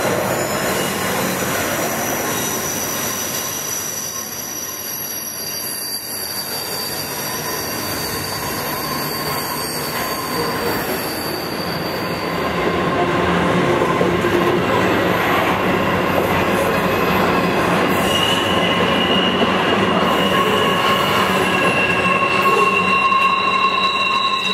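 Freight train wagons rolling past with steel wheels squealing on the rails: several high, steady squeal tones that come and go over the rumble of the train, growing somewhat louder about halfway through.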